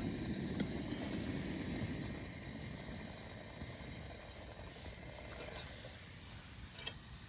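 Wind rumbling on the microphone, strong at first and easing after about two seconds, with a few faint clicks.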